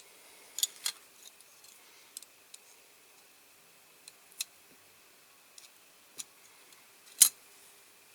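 Scattered light clicks and taps at irregular intervals, a sharper, louder click about a second before the end, over a faint steady hum.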